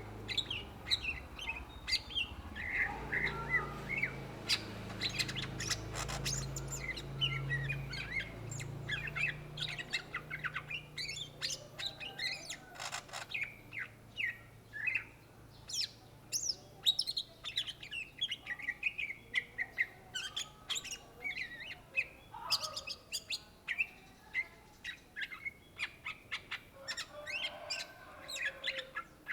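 Greater green leafbird (cucak ijo) singing a fast, varied song of sharp chirps and short whistled notes, almost without a break.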